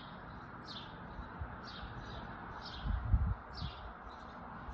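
A bird chirping, repeating a short falling note about once a second over a steady background hiss. A brief low rumble comes about three seconds in.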